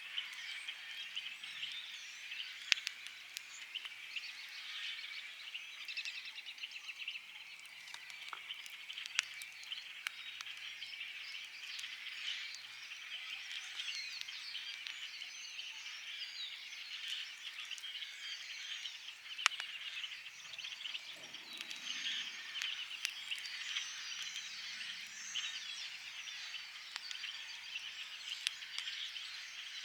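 A dense chorus of spring frogs calling together, a steady rapid pulsing trill, with a few sharp pops from a crackling wood fire.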